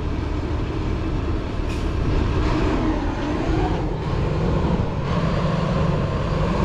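Heavy diesel truck engine running steadily under load, its pitch rising slightly a couple of seconds in as the truck is backed up.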